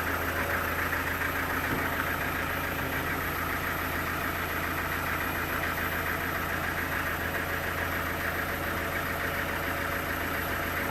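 A sawmill's engine idling steadily with a fast, even chugging.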